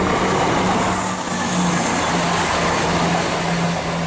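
A Class 170 Turbostar diesel multiple unit passing close at speed. The loud rush of its wheels and underfloor diesel engines carries a steady hum that drops slightly in pitch about two seconds in as the train goes by.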